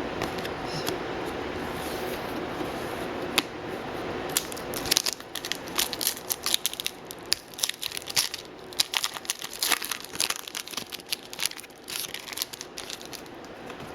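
Trading-card pack wrapper being torn open and crinkled by hand: one sharp snap, then from about five seconds in a dense run of crackling that stops shortly before the end.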